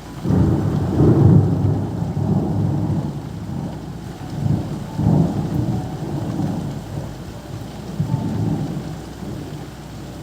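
Thunder rumbling: a sudden deep roll that swells and fades several times over steady rain.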